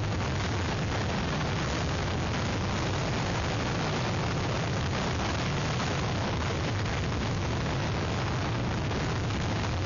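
Hurricane-force wind blowing over an outdoor microphone: a steady, dense rush with a heavy low rumble that does not let up.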